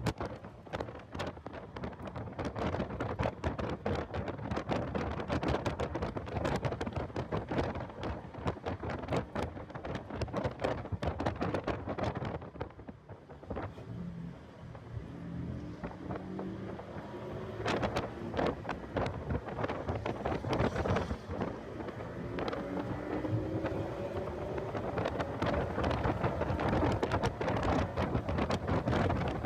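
Heavy wind buffeting on the microphone of a car at track speed, a constant crackling rush. Under it the car's engine can be heard twice climbing in pitch as it accelerates, in the second half.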